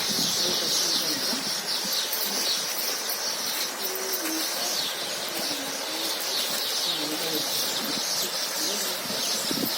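Sakinalu (rice-flour snacks) deep-frying in hot oil, a steady dense sizzle with constant fine crackling.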